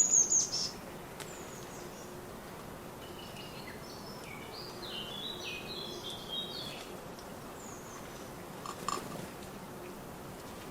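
Small garden songbirds calling and singing: a loud, high, falling call right at the start, then a longer phrase of quick stepped notes about three to seven seconds in, over a steady background hiss.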